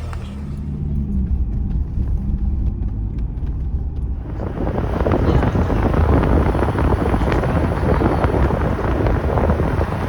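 A low steady rumble, then about four seconds in loud rushing wind noise on the microphone takes over.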